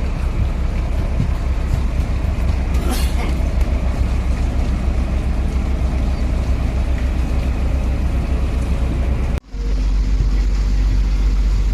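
A motor running with a steady low rumble. It breaks off abruptly about nine seconds in and comes back at once with a slightly different tone.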